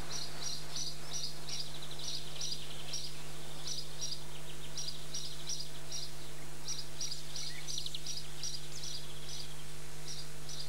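A small bird chirping in quick runs of short high calls, several a second with brief pauses, over a steady low hum.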